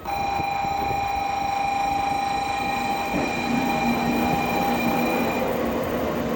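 Shinkansen train moving at a station platform: a steady rumble with a high, steady whine that fades out near the end, and a lower hum joining about halfway through.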